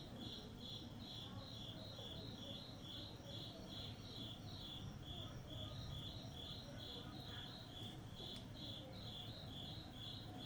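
Insect chirping steadily and rhythmically, about three to four short high-pitched chirps a second, over a faint low rumble.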